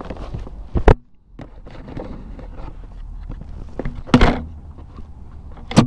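Handling noise: three sharp knocks or clunks, about a second in, about four seconds in and near the end, over low rustling.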